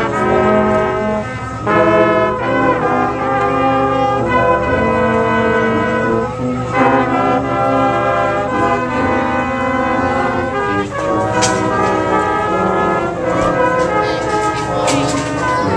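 Community band's brass section playing sustained chords and a melody, with trombones and trumpets to the fore. A few short, sharp clicks sound over the music in the last few seconds.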